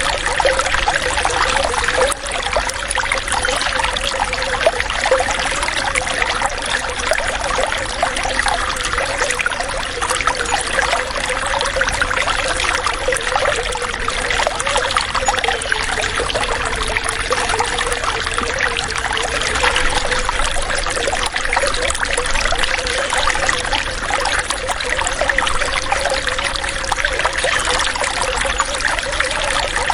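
Running water: a steady, continuous trickling and pouring flow, like a small stream or tap.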